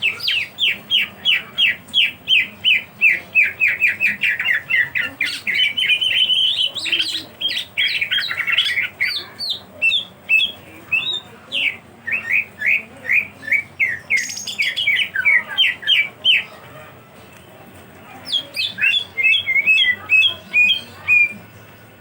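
Cucak ijo (greater green leafbird) singing: long runs of short, clear, down-slurred whistled notes repeated about four a second. Near the end, after a brief pause, it gives a more varied chattering phrase.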